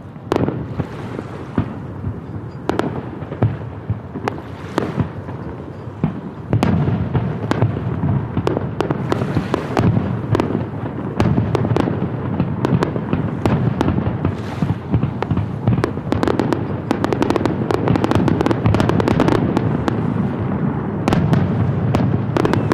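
Aerial fireworks shells bursting with sharp bangs. The bangs are spaced out at first, then from about six seconds in they come in a dense, rapid run over a continuous rumble.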